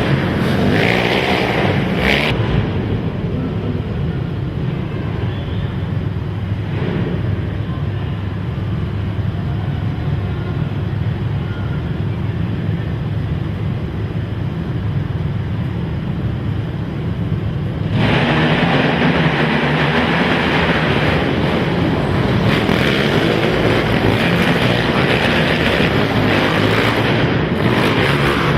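Racing quad (ATV) engines running hard on a dirt track, a loud continuous engine din. About two-thirds of the way in it suddenly gets louder and brighter.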